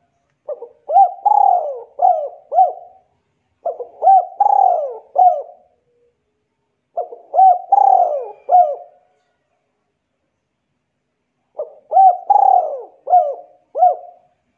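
A bird calling the same phrase of about five hooting notes four times, each phrase about two seconds long with short pauses between.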